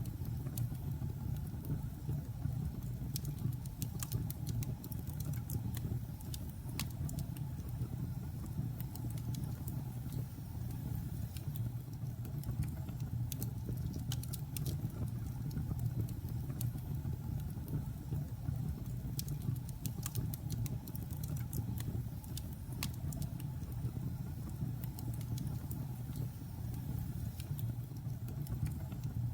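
Wood fire burning in a fireplace: a steady low rumble of the flames with frequent small crackles and pops of burning logs.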